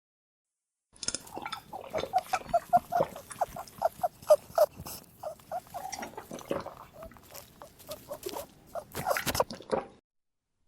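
Animal calls: a run of short, quick calls, several a second, with clicks and scuffling among them. They start about a second in and stop shortly before the end.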